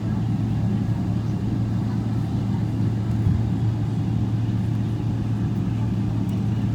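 Airliner jet engines running at low power, heard from inside the passenger cabin: a steady, low drone with a deep hum.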